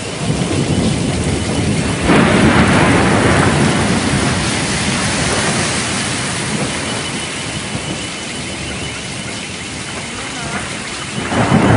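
Heavy rain pouring down in a steady hiss. About two seconds in it swells to a louder surge that slowly dies away over several seconds, and it swells again near the end.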